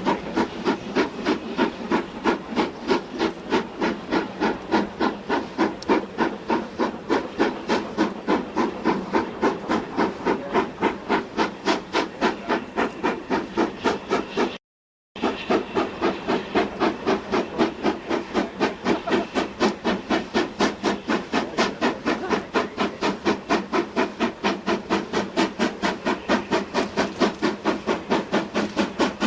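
GER N7 0-6-2T steam tank locomotive working under steam, its exhaust beating rapidly and evenly at a steady speed. The sound cuts out for about half a second about halfway through.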